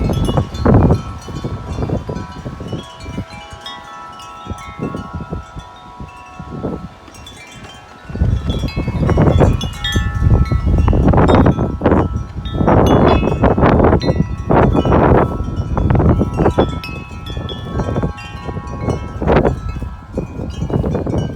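Tubular metal wind chimes ringing in strong wind, many overlapping tones sounding at once. Gusts of wind buffet the microphone; the wind eases for a few seconds, then picks up hard about eight seconds in.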